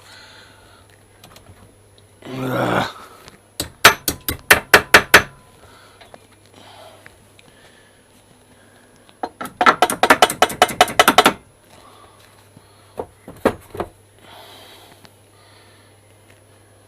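Sharp metal strikes on a heated steel engine bar clamped in a vise, being bent to shape: a run of about seven blows, a quicker run of about fifteen, then two or three more near the end.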